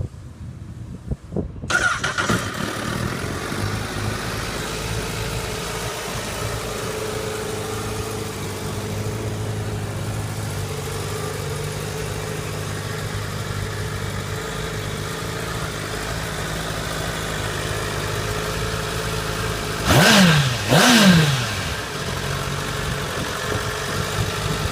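The inline-four engine of a stock 2016 Honda CBR1000RR Fireblade starts about two seconds in and then idles steadily. Near the end it is revved twice in quick succession, each rev rising and falling back to idle.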